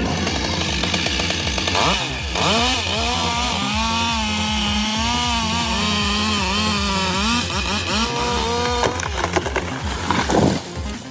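Chainsaw running under load and cutting wood, its engine pitch rising sharply about two seconds in, then wavering up and down as it bogs and recovers in the cut.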